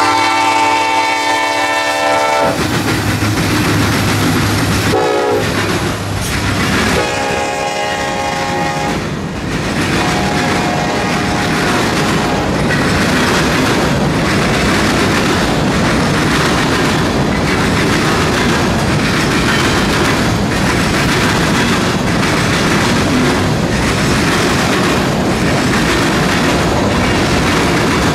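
Canadian National freight train locomotives sounding a multi-note horn several times in the first dozen seconds, the pitch bending as the engines go by. Then a long string of freight cars rolls past with a steady rumble and wheels clicking over rail joints.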